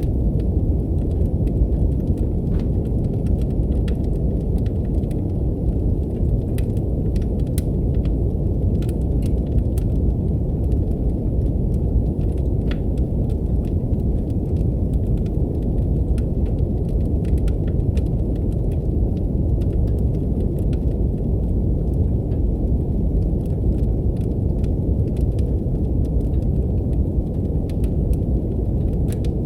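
Steady, deep brown noise with a wood fire crackling over it in scattered faint pops and snaps.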